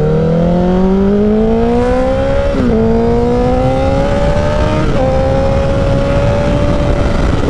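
Honda CBR1000RR's inline-four engine accelerating through the gears. Its pitch climbs steadily, then drops sharply at two upshifts, about two and a half and five seconds in. After the second shift it holds a nearly steady pitch, with wind noise throughout.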